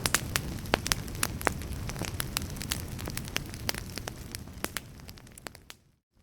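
Wood fire burning in a fireplace, crackling with many sharp pops over a steady low rumble. About five seconds in it fades down to a brief silence.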